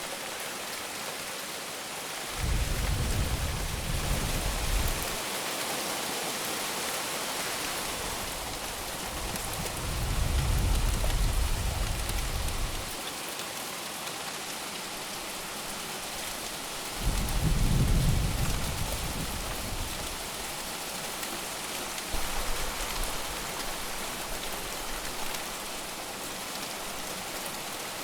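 Heavy rain falling steadily, with several low rumbles of thunder that swell and fade every few seconds.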